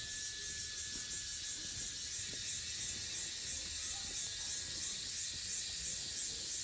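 Forest insects buzzing in a steady high drone, with a low rumble underneath.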